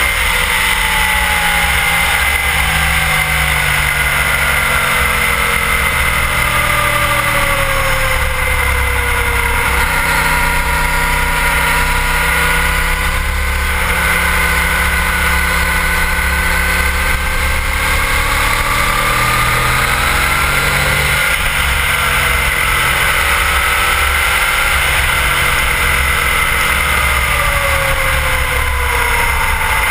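Sport motorcycle's engine under way at track speed, its pitch rising and falling as the rider works the throttle and gears through the corners.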